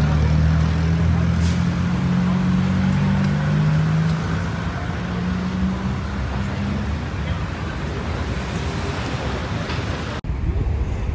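Street traffic noise with a motor vehicle engine idling close by: a steady low hum that fades out about seven seconds in, leaving the general roadway noise.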